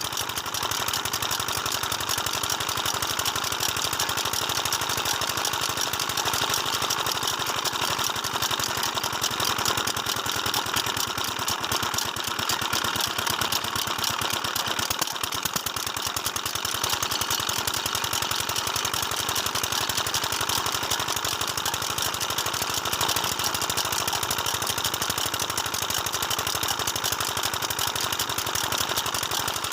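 Diesel engine of a farm tubewell running steadily, with a rapid, even beat of firing strokes.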